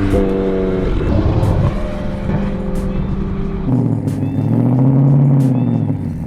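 Car engines running and revving, their pitch rising and falling. About four seconds in, the sound changes to slower swells of revving that climb and drop back.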